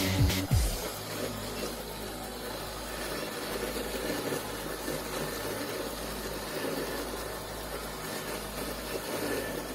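Robot lawn mower running, a steady electric motor and blade hum with a low drone. A snatch of electronic music with falling sweeps ends about half a second in.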